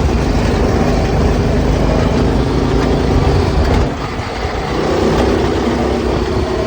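Go-kart's small engine with a new 30 mm carburetor running loudly as the kart is driven, easing off a little about four seconds in.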